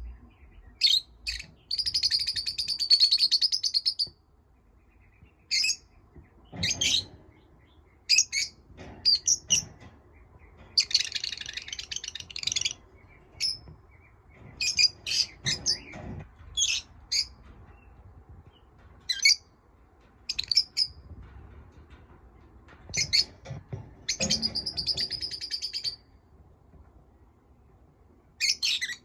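Small pet parrots chirping: sharp single chirps come and go throughout, broken by a few stretches of rapid chattering each lasting about two seconds.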